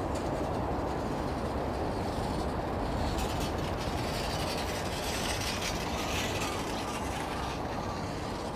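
An electric train running along an overhead viaduct: a steady rumble of wheels on rail, with a run of rapid clicking from about three to seven seconds in.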